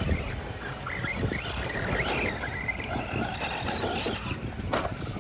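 Electric RC basher car running off-road, its motor whining up and down in short bursts over a rough rush of tyres and wind, with a sharp knock near the end.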